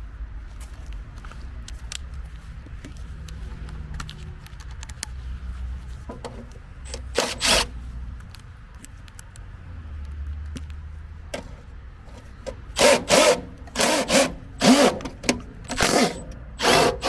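A cordless drill/driver run in short bursts, backing screws out of a furnace's sheet-metal lid: one burst a few seconds in, then a quick series of about seven near the end, over a low steady rumble.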